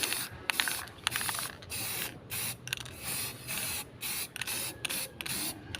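A run of short hissing scrapes, roughly two a second, with a few sharp clicks, from cleaning work on a stock pot burner.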